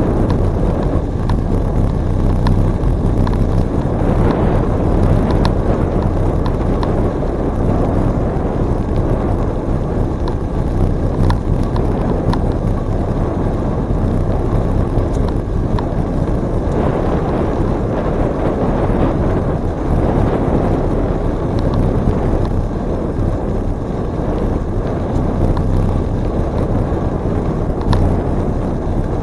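Wind rushing over the microphone of a moving bicycle, mixed with tyre noise on the trail: a steady, loud low noise with a few faint ticks scattered through it.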